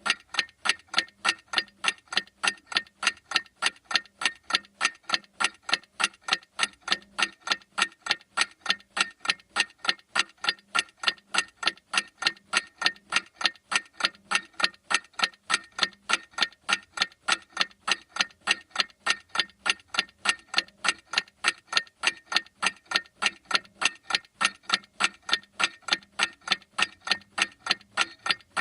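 Clock ticking steadily: sharp, even ticks at about three a second, each one alike in loudness.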